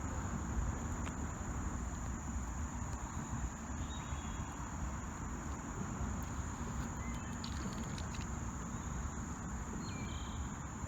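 Steady high-pitched drone of crickets or similar insects over a low steady rumble, with a couple of faint short chirps.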